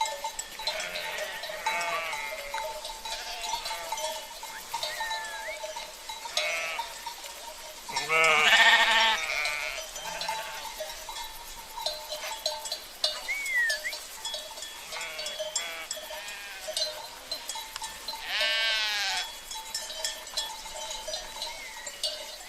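Sheep bleating over the steady clanking of livestock bells (cencerros), with faint bleats throughout. Two louder, wavering bleats come about eight seconds in and again a few seconds before the end.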